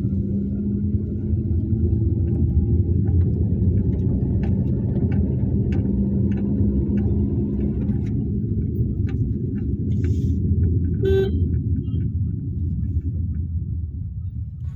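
Car driving on the road, heard from inside: a steady engine and tyre rumble, with light ticks and a brief horn toot about eleven seconds in.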